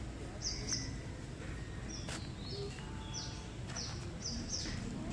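A bird chirping: a quick series of short, high, slightly falling notes, coming faster towards the end, over a low outdoor rumble.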